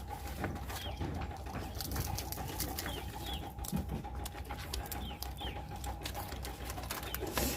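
Eating sounds: close-up chewing with many small mouth clicks and crunches, over a steady hum. Birds chirp and coo in the background.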